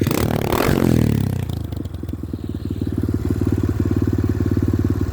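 Pit bike's small engine revved once near the start, the revs falling away, then settling into a steady idle.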